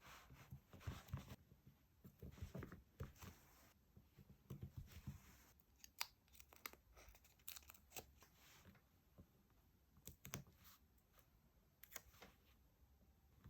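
Stickers and paper being peeled and torn close to the microphone, faint: papery rustling stretches in the first five seconds or so, then scattered sharp light clicks and taps.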